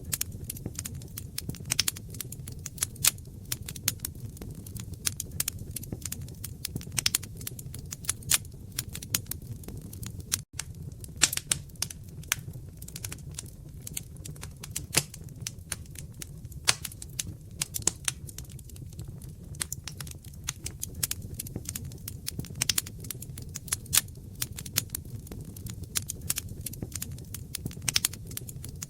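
Wood fire crackling: many irregular sharp pops and snaps over a steady low rumble of the flames, with a momentary drop-out about ten seconds in.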